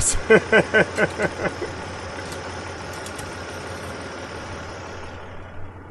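A Toyota 4Runner's 3.4-litre four-cam 24-valve V6 idling steadily under the open hood. It is left running so the automatic transmission fluid level can be read on the dipstick.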